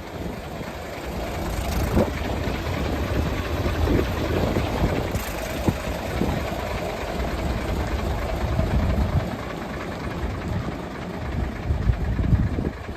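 Mitsubishi Fuso Great dump truck's 8DC11 V8 diesel engine running with a steady low rumble, growing louder over the first couple of seconds, with a few sharp knocks standing out.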